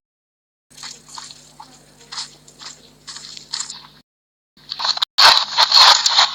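Short, crisp crunching sounds, like chewing on something crunchy, over a steady low hum, with two brief dead gaps; about five seconds in, a louder, denser stretch of crunching noise starts.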